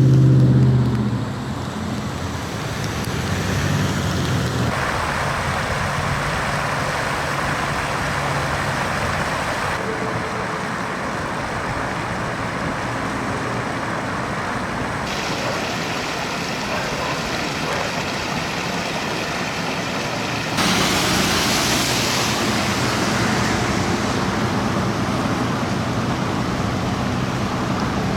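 Traffic and rain on flooded, rain-soaked streets: a steady wash of vehicle and water noise with a low engine hum. It changes abruptly several times and turns louder about 21 seconds in.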